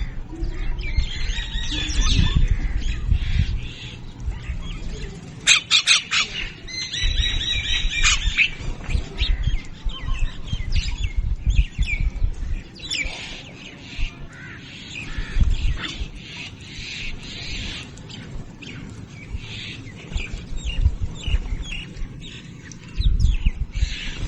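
A mixed flock of birds feeding on grain, chirping and calling over and over, with some harsher squawks. Low rumbles come and go underneath.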